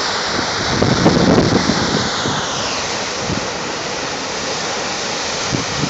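Saar waterfall in heavy winter flow: a steady, loud rush of falling water, with uneven low surges in the first couple of seconds.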